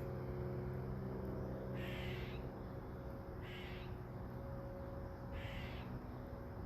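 A bird calling three times, each call about half a second long and roughly two seconds apart, over a steady low hum.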